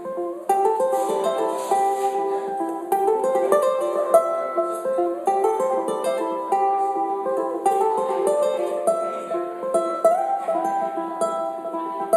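Ukulele playing an instrumental tune: a plucked melody over repeating ukulele parts layered with a loop pedal.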